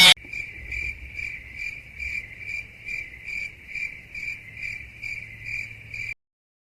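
Cricket chirping: a high, continuous trill pulsing in an even rhythm of a little over two chirps a second, starting abruptly and cutting off suddenly about six seconds in.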